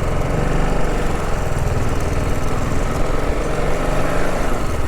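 TVS Apache RR 310's single-cylinder engine running steadily as the motorcycle is ridden, an even low engine note.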